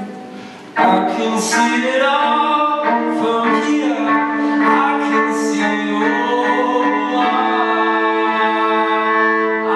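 Live violin music built with a loop pedal: steady looped low notes hold underneath while a bowed melody enters about a second in and slides between long notes above them.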